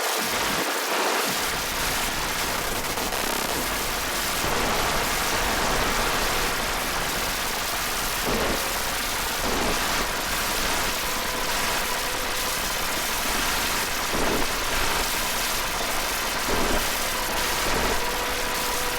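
Steady rain-like hiss with a low rumble beneath and a couple of faint held tones, a field-recording texture in an ambient electronic track, with a few brief swells.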